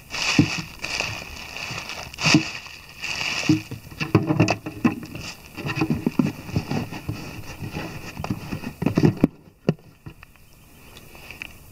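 Gear being packed into a motorcycle pannier: irregular rustling of bags with knocks and clicks as items are handled and set in place, going quieter about nine seconds in.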